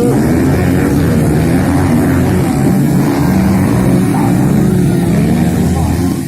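Several motocross bike engines running and revving together, their pitches rising and falling as the bikes race.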